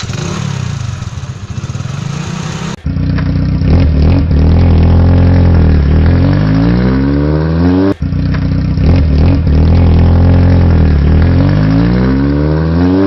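Motorcycle engine running, then revved loud several times with the pitch climbing on each rev. The sound breaks off abruptly partway through and the same revving starts again.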